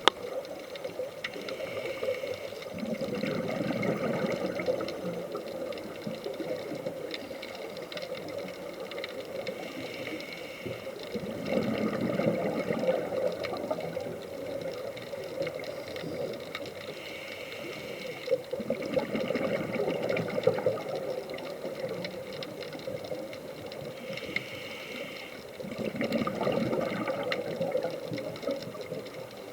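Scuba diver's regulator breathing underwater: a short hissing inhale, then a longer rush of bubbling exhale, the cycle repeating about every seven seconds.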